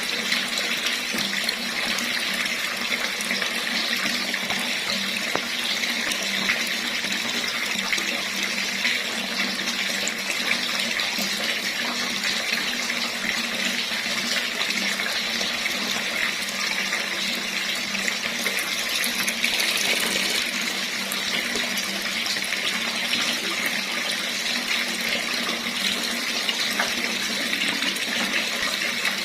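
Tap water running steadily, splashing into a basin, with a brief surge in level about two-thirds of the way through.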